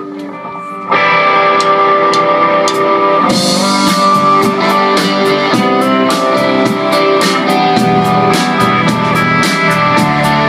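Live rock band opening a song: ringing electric guitars start quietly, the band comes in louder about a second in, and drums with cymbals join at a steady beat about three seconds in.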